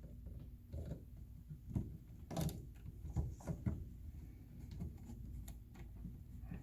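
Plastic dollhouse parts being handled and fitted together: irregular light clicks and knocks, the loudest about two and a half seconds in.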